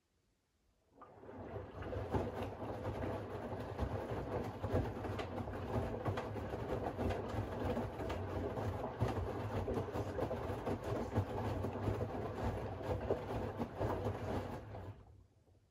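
Siemens iQ700 front-loading washing machine turning its drum through one wash-rhythm cycle, the wet load tumbling with many small knocks. It starts about a second in and stops about a second before the end.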